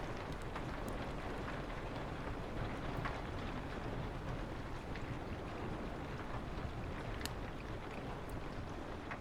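Steady rain and wind hiss with a low rumble, broken now and then by single sharp pops of a crackling wood fire.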